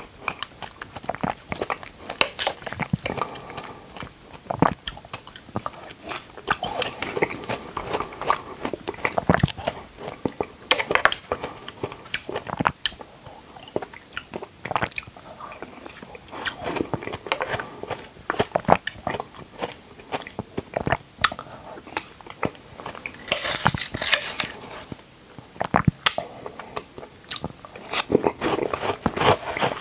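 Close-miked eating of dragon fruit: repeated bites and chewing, with many irregular short mouth clicks.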